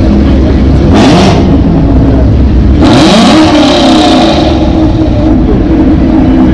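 Car engine revving at a car show: a short blip about a second in, then a longer rev about three seconds in whose pitch climbs and falls, over a steady loud low rumble.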